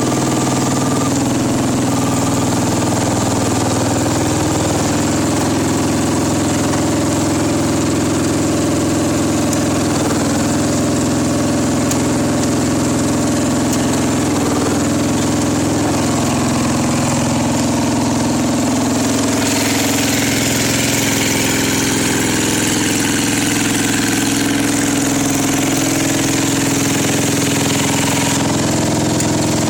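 Engine idling steadily while warming up after a cold start in about 20-degree weather, its tone shifting slightly about two-thirds through.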